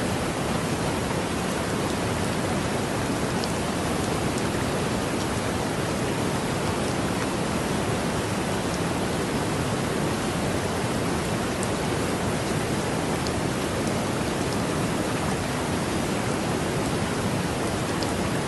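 Heavy rain falling steadily: a dense, even hiss with a few faint ticks of single drops.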